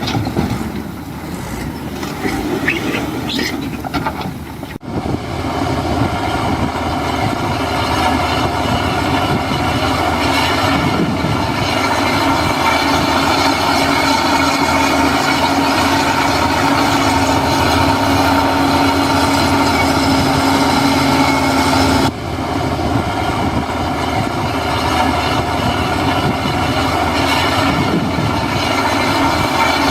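Diesel engine of heavy earthmoving machinery running steadily under load, with a steady tone over the engine noise. The sound breaks off sharply and resumes about five seconds in and again about twenty-two seconds in.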